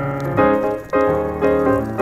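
Piano music, with new chords struck about every half second.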